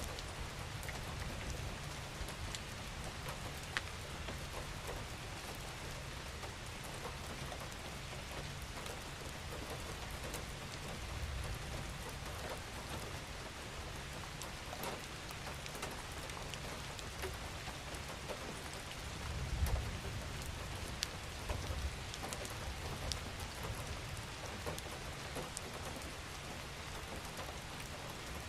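Steady gentle rain falling on surfaces, with scattered individual drops ticking through it and a low rumble that swells briefly about two-thirds of the way in.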